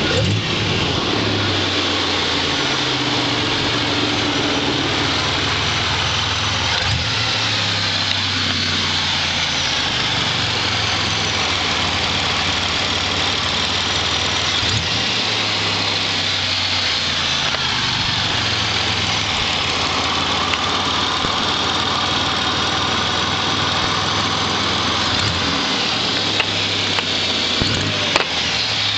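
Supercharged 3800 V6 running in park through a Borla cat-back exhaust with no resonator, its note stepping up and down a few times. A few sharp ticks come through, mostly near the end: the tick/tap the owner hears from the crossover area when the throttle is stabbed.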